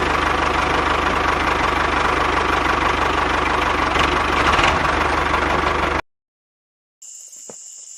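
Small model diesel engine running steadily with a fast, even clatter. It cuts off suddenly about six seconds in.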